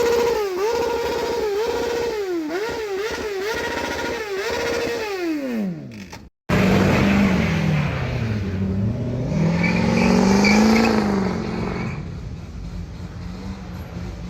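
Vehicle engine revved hard again and again: the pitch climbs to the same ceiling, holds and drops several times, then winds down. After an abrupt cut, an engine runs lower, dropping in pitch, then revving up and easing off.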